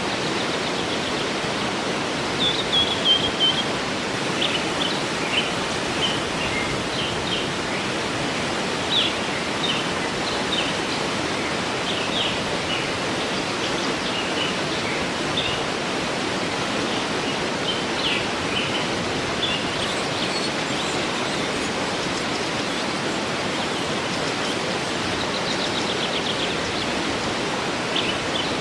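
Steady rush of a waterfall, with songbirds chirping over it: short high notes and a brief trill about two seconds in, the calls thinning out in the second half.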